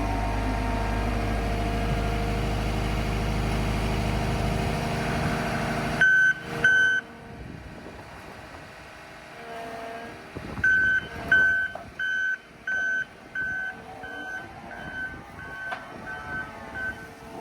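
New Holland C362 skid steer's engine running loud and steady, then dropping abruptly about six seconds in. After the drop its reversing alarm beeps: two beeps, then a run of about ten evenly spaced beeps, roughly 0.6 s apart, that grow fainter toward the end.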